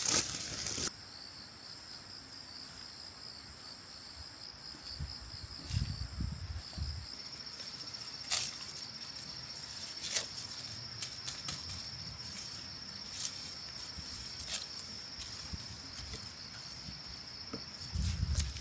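Insects trilling steadily in a high, pulsing buzz, with a second, higher tone in the first half. A loud rustle opens the clip, and scattered clicks, rustles and a few low thumps from handling in the field run beneath.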